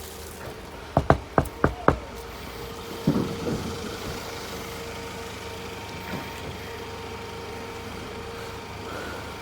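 Five quick, sharp clicks about a second in, then a duller thump, over the steady hum of a car.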